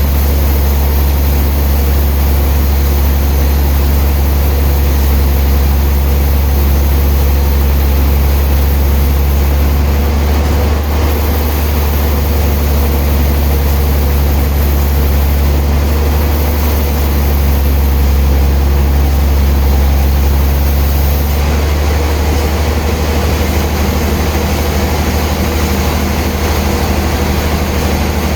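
Heavy sawmill machinery running with a steady, loud low drone, without clear breaks or separate cutting strokes.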